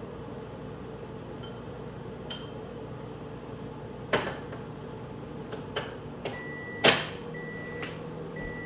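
Microwave oven running with a steady hum, a few sharp clicks along the way, the loudest about seven seconds in. Near the end it beeps about once a second, the signal that the cooking cycle has finished.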